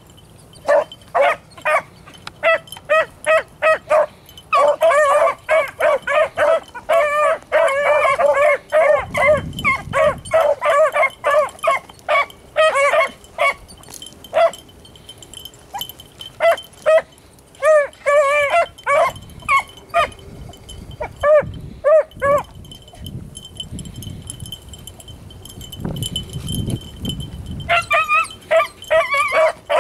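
A pack of beagles baying on a rabbit's scent trail: quick runs of short, high yelping barks, dense for several seconds, then more scattered, falling quiet for about five seconds before taking up again near the end.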